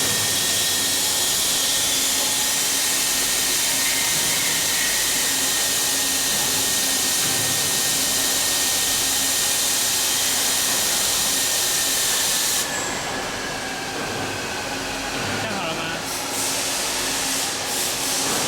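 Double-sided CNC milling machine running: a loud, steady hiss with a thin high whine. About two-thirds of the way through the highest hiss cuts off and the whine slides slightly lower.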